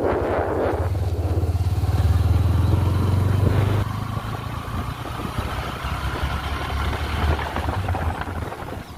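NS125 motorcycle's single-cylinder engine running while riding, louder for the first few seconds and then easing off a little about four seconds in.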